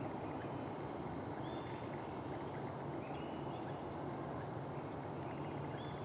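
Steady low outdoor background rumble with a few faint, short bird chirps.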